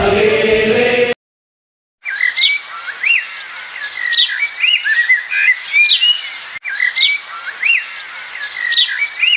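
Birds chirping and calling: a repeating pattern of short rising-and-falling notes, with a sharp upward whistle about every second and a half. This starts about two seconds in, after a second of group singing that cuts off to brief silence.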